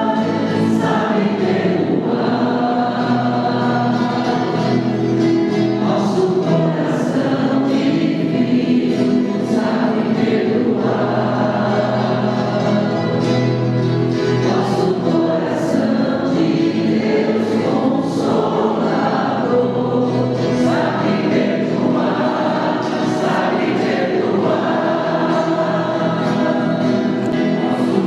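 Church choir singing a slow sacred hymn with accompaniment: the penitential song of the Mass, asking the Lord's mercy.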